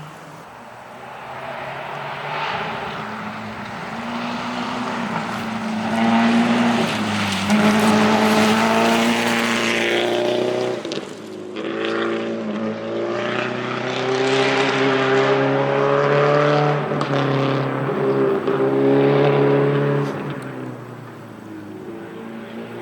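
Rally car engine at high revs on a stage, its note stepping up and down with gear changes and throttle. It builds over the first few seconds, stays loud through the middle, and fades near the end.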